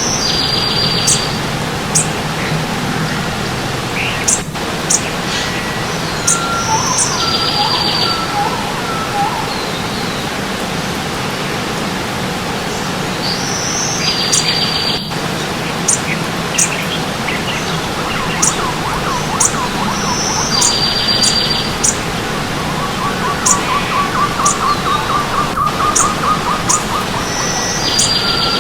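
Stream water running steadily under several birds singing. One bird repeats a high note followed by a buzzy trill about every seven seconds, with short high chirps scattered throughout and a lower rapid trill near the end.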